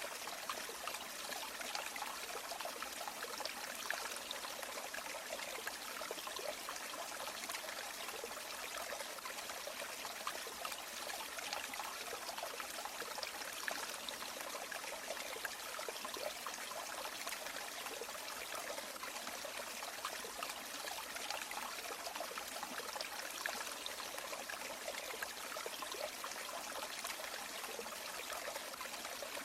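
A small river or stream flowing over stones, a steady babbling and trickling of water with no break.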